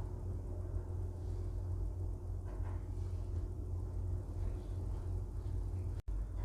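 Steady low rumble of a cruise ship's engines and machinery heard inside a crew cabin, with a faint steady hum over it; the sound cuts out for an instant near the end.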